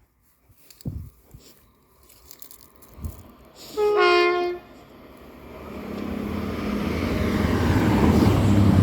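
CrossCountry Voyager diesel multiple unit sounding its two-tone horn about four seconds in, a short high note then a lower one. The train's running noise then builds steadily louder as it approaches at speed.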